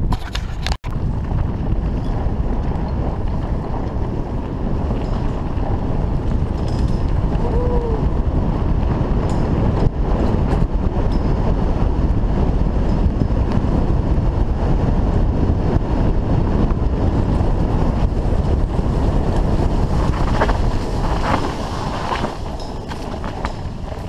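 Wind rushing over a bike-mounted action camera's microphone, with the bike's tyres rumbling over a dirt forest trail at speed. A few sharp rattles come near the end.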